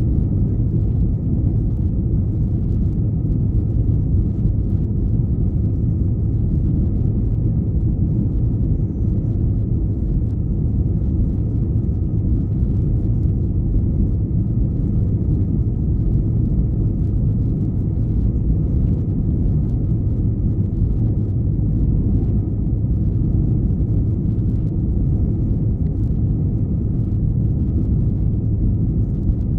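Airliner cabin noise inside an Airbus A321-211: a steady low rumble from its CFM56 engines and the air, with a faint steady hum above it and no change in level.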